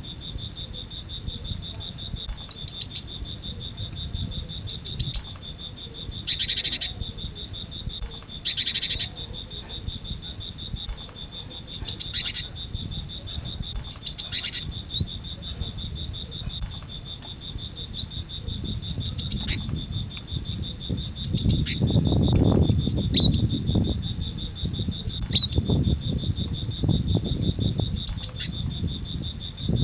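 Cinereous tit (gelatik batu) calling: short, sharp, high notes in quick pairs, repeated about every two seconds, over a steady high-pitched drone.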